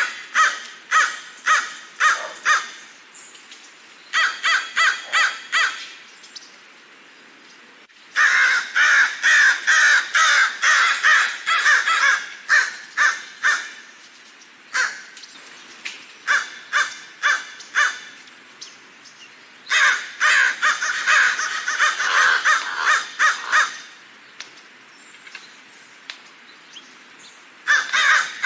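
Crows cawing in bouts of quick, harsh caws, several seconds of calling broken by short pauses; the longest and densest bursts, with caws overlapping, come about a third of the way in and again about two-thirds through.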